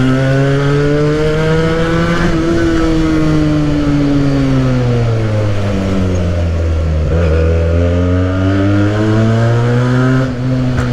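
Benelli motorcycle with a modified exhaust running under way. Its engine note climbs briefly, sinks as the engine slows to a low point about two-thirds through, then climbs again as it picks up speed.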